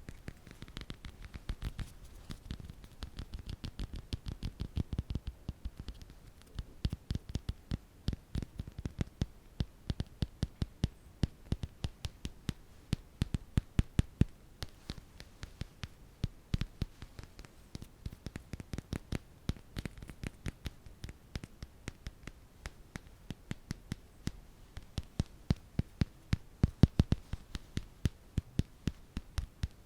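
ASMR tapping: quick, light taps in irregular runs of several a second, with the loudest taps near the end.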